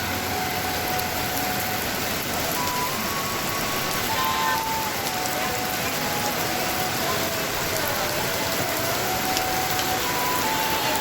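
Heavy rain falling steadily, an even hiss of downpour. A faint thin tone that steps and slides in pitch runs above it.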